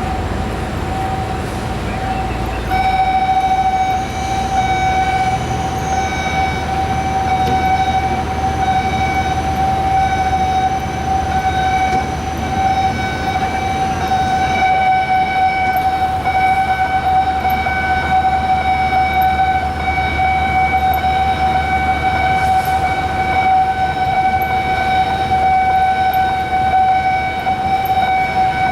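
Warning alarm sounding one unbroken steady tone. About three seconds in, several higher tones join it and hold steady.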